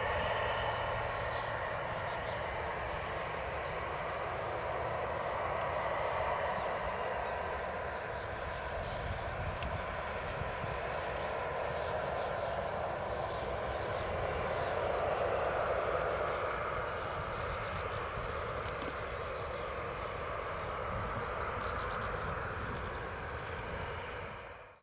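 Airbus A320's jet engines running with a steady roar whose pitch drifts slowly, fading out near the end.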